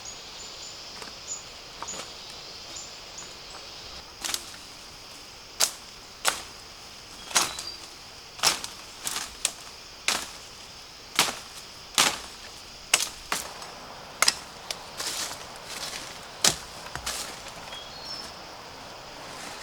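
Blade chopping at bamboo: a run of sharp, irregular strikes, about one a second, starting about four seconds in. A steady insect buzz runs underneath.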